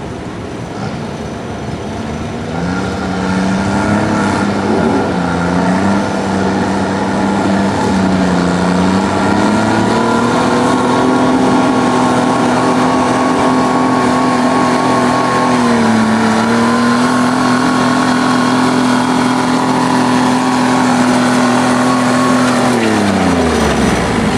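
Diesel garden tractor engine running hard under load in a pull, its pitch sagging twice and recovering. Near the end the engine note falls away quickly as it throttles down.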